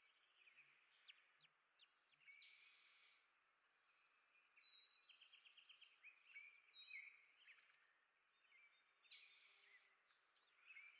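Faint songbirds chirping and singing, with a few buzzy notes and a quick rapid trill among the chirps.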